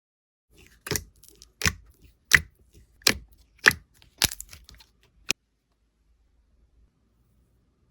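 Slime being pressed and squeezed by hand, giving a string of about seven sharp crunchy crackles at an even pace that stops a little past the middle.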